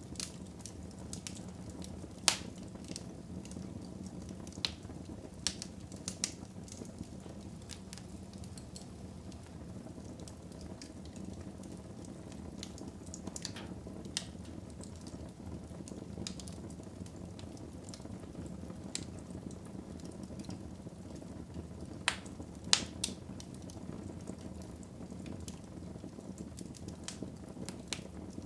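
Wood fire burning in a fireplace: a steady low rush of flame with scattered sharp crackles and pops, the loudest about two seconds in and a cluster of them near 22 to 23 seconds.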